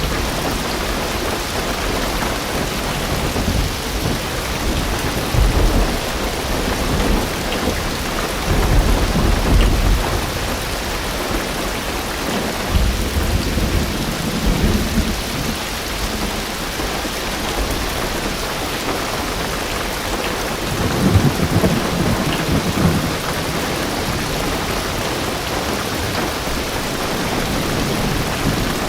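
Heavy rain drumming steadily on a car roof and windows, heard from inside the car. Low rolls of thunder rumble through several times, the strongest about a third of the way in and again past two-thirds.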